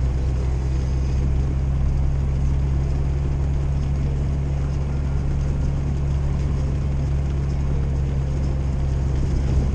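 Old Jeep driving on a snowy, icy road, heard from inside the cab: a steady low engine and drivetrain drone under an even hiss of tyre and road noise.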